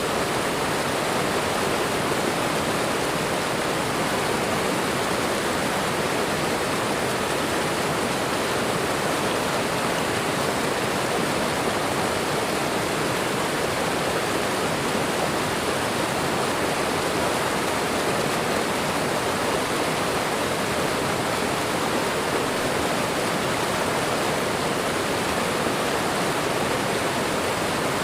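Waterfall and running water rushing in a steady, unbroken wash.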